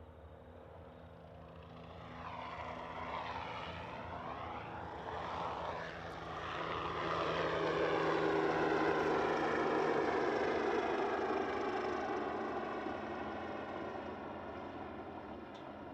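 An aircraft flying past: its sound swells over several seconds, peaks about halfway through, then fades away, with a sweeping whoosh as it goes by.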